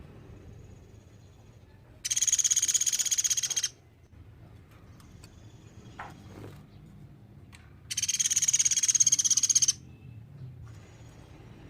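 Platuk beras woodpecker calling a fast, high rattling trill, twice, each burst lasting under two seconds, with fainter trills in between.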